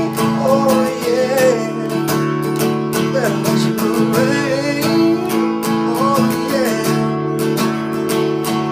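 Acoustic guitar strummed in a steady rhythm, playing an instrumental break in a slow soul ballad.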